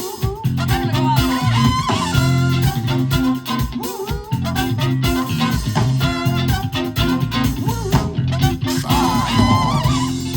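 Live band playing an instrumental passage with no vocals: electric guitar and bass guitar over a steady drum beat.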